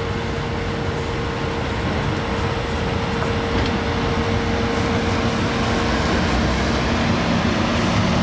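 Chichibu Railway Deki 102 electric locomotive running steadily during shunting, with a continuous rumble and a steady hum. The hum gives way to a lower one near the end.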